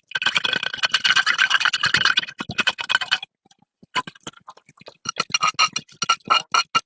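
Rapid scraping strokes on a hard surface, in two spells with a short pause a little past the middle.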